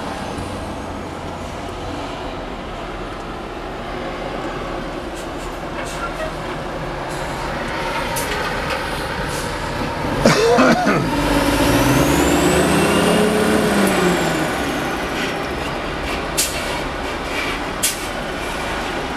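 Bus engine running as the bus rolls slowly through a toll lane. About ten seconds in there is a sudden loud burst, then an engine note that rises and falls for a few seconds, and a few sharp clicks near the end.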